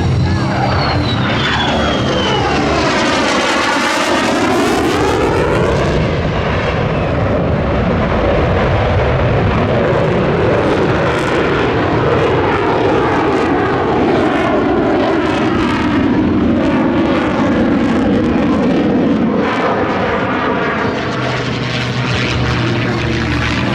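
F-35 fighter jet making a fast low pass, its engine noise sweeping down and back up in pitch as it goes by in the first few seconds, then continuing as a loud, steady jet roar as it pitches out and climbs away.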